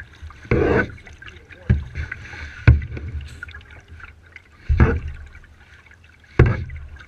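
Kayak paddle strokes: the blades dip and splash in the water five times, about one to two seconds apart, each stroke with a dull thud.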